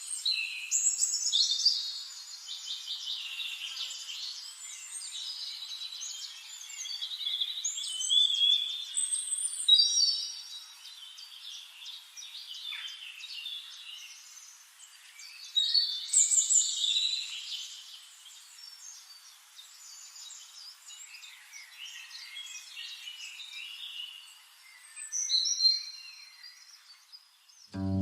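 Several birds chirping and twittering in quick, overlapping phrases, with louder bursts of song about a second in, around the tenth second, around the sixteenth and near the end.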